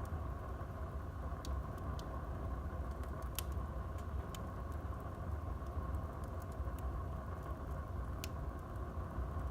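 Wood fire burning in a fireplace: a steady low rumble with scattered sharp crackles and pops. The sharpest pop comes about three and a half seconds in and another near the end.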